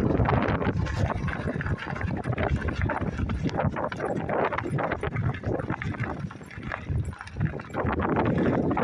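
Constant rustling and scraping from a microphone riding in a shirt pocket during a bicycle ride, mixed with wind buffeting. It eases briefly about six to seven seconds in.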